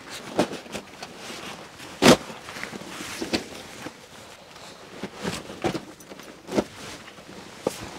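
A dozen or so short, irregular knocks and scuffs, unevenly spaced, the loudest about two seconds in.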